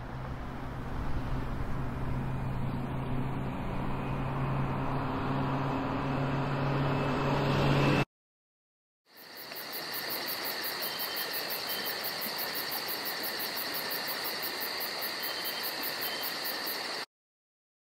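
Added ambient sound effects in two parts. First comes a steady low rumble with a hum, building slightly, which cuts off about eight seconds in. After a second of silence comes a steady hiss with a high, even chirping pulse about four times a second, which stops abruptly about a second before the end.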